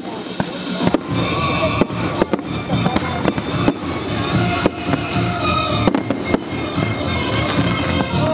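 Fireworks display: sharp bangs of exploding shells go off at irregular intervals, several a second at times, over a dense continuous din, with music playing underneath.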